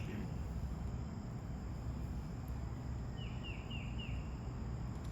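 Outdoor ambience: a steady high insect-like drone over a low rumble, with a bird calling four quick down-slurred notes about three seconds in.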